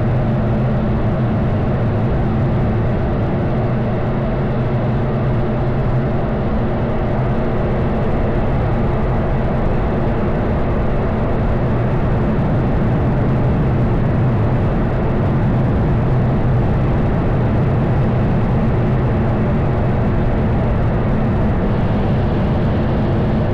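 Aircraft engines running with a steady, even drone and a low hum, holding level throughout.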